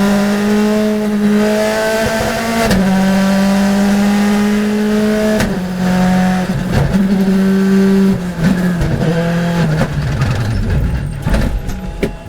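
Race car engine running hard under load, its note holding steady and stepping in pitch at gear changes a few times. Near the end the note breaks up into rough noise and drops away.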